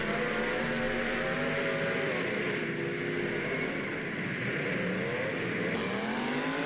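Engines of full-size demolition derby cars revving, the pitch sagging and climbing as the drivers work the throttle, with a steep rise near the end.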